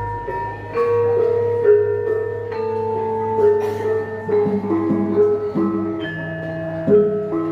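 Javanese gamelan ensemble playing a gending: bronze metallophones and gong-chimes strike a moving melody, each note ringing on, over a low sustained ring.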